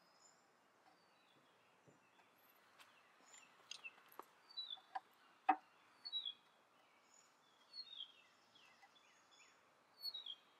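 Small birds chirping in the background in short, falling notes, repeated throughout. A few sharp clicks come in the middle, the loudest about halfway through.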